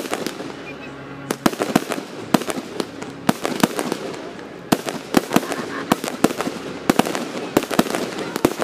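Aerial fireworks going off: clusters of sharp bangs and crackles in quick succession, every second or so, over a steady background hiss.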